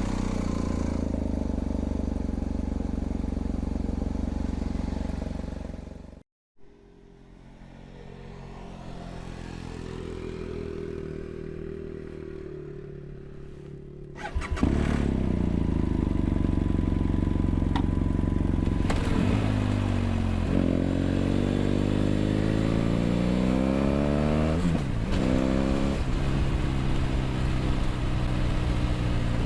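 BMW F800GS parallel-twin engine with a LeoVince aftermarket exhaust, running steadily at first, then briefly cutting out about six seconds in and coming back quieter. It gets much louder about halfway through, and in the last third the revs rise several times, with gear changes in between, as the bike pulls away.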